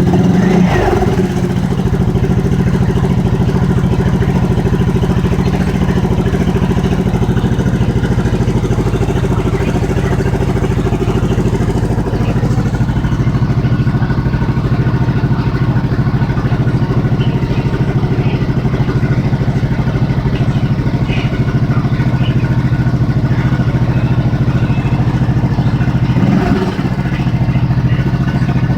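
Single-cylinder motorcycle engine running steadily on its first test run after a rebuild with a new crankshaft, cylinder, piston, rings and valve stem seals.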